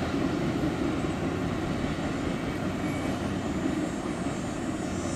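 A long freight train's cars rolling along the rails, a steady low rumble and rattle, with a faint high whine creeping in near the end.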